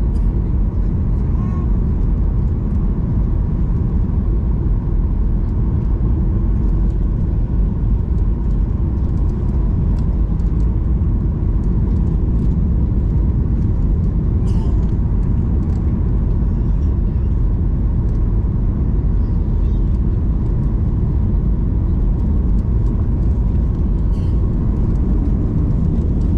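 Steady rumble of jet engines and airflow inside an airliner cabin in flight, even and unchanging, with a faint steady whine.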